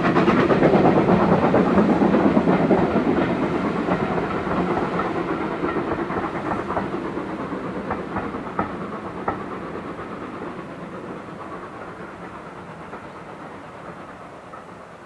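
Steam-hauled passenger train running away into the distance: the rumble and clatter of its coaches' wheels on the track fades steadily, with a few sharp clicks of wheels over rail joints between about six and nine seconds in.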